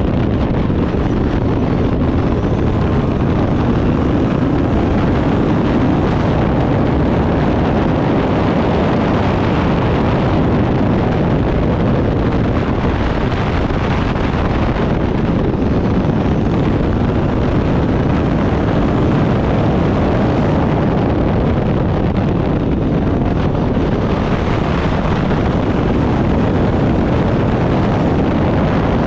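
Turbocharged Backdraft Cobra race car's engine running hard at racing speed, with wind rushing over the microphone; the sound stays loud and steady with no clear gear changes.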